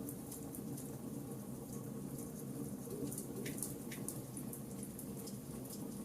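Charcoal campfire burning: small irregular crackles and pops, several a second, over a steady low rushing.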